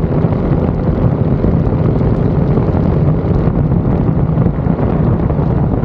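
Go-kart engine running at a steady pitch with wind buffeting the microphone.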